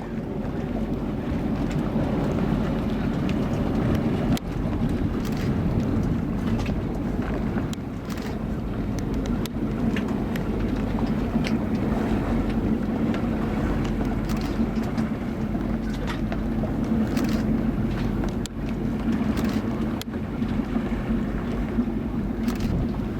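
Motorboat underway: a steady engine drone with wind buffeting the microphone, and scattered short knocks or splashes.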